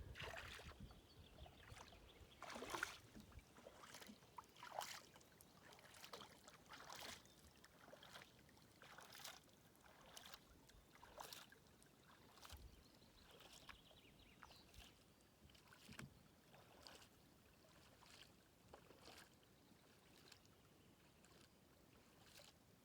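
Kayak paddle strokes dipping and splashing in the water, a stroke every second or two. They are faint, and fainter in the second half.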